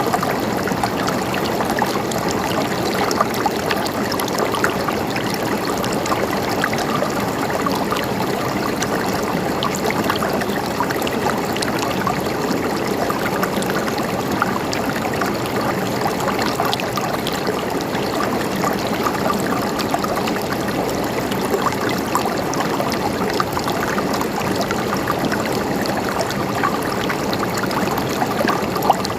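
Stream of water flowing and trickling steadily, with many small splashes and bubbles.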